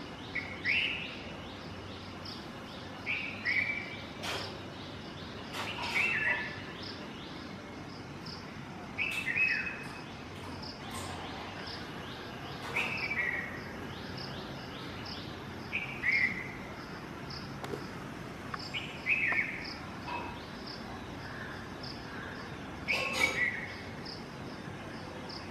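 A bird's short, falling call repeated about every three seconds, over insects chirping in a steady fast pulse, with a few sharp clicks.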